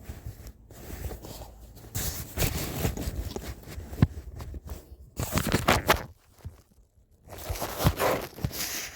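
Rustling and scraping of cosmetics and brushes being handled and packed, in three bursts of noise with a few sharp clicks.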